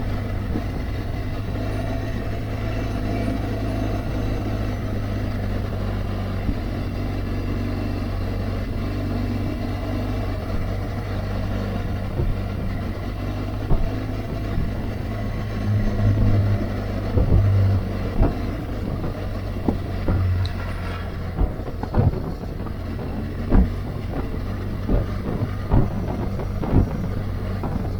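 BMW R1200GS Adventure's boxer-twin engine running steadily while the motorcycle is under way. Short sharp bursts come now and then in the second half.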